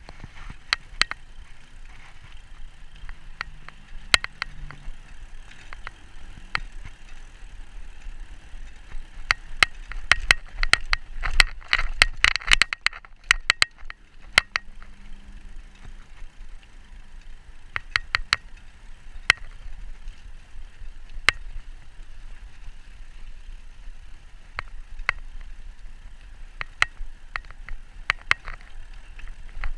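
E-bike tyres rolling over a rough towpath: a steady hiss with scattered sharp clicks and cracks, coming thick and fast for a few seconds about ten seconds in.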